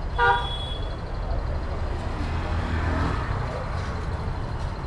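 Street traffic: a steady low rumble of vehicle engines, with a short pitched toot of a horn just after the start.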